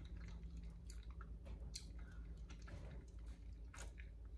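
Faint, close-miked chewing of a snack, with scattered soft mouth clicks.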